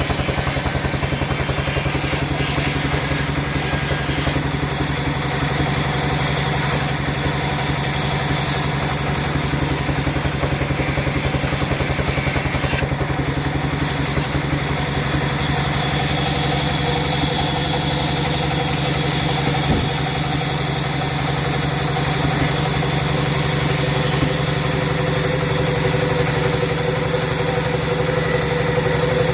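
Sawmill machinery running steadily with a continuous engine-like drone and a fast, even pulse.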